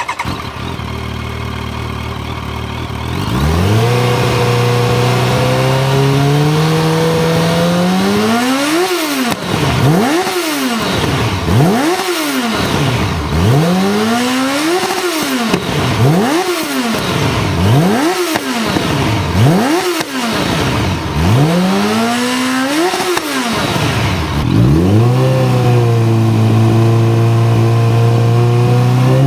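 Yamaha FZ8 inline-four with a full Akrapovic exhaust system: it idles, the idle steps up about three seconds in, and then comes a series of about ten quick throttle blips, each rising sharply and dropping back. It then settles into a steady fast idle and starts to rise again near the end.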